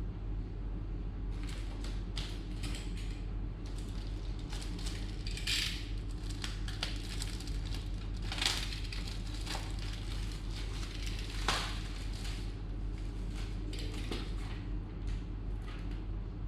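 Scattered clicks and crackles from handling, over a steady low electrical hum; three clicks stand out, about five and a half, eight and a half and eleven and a half seconds in.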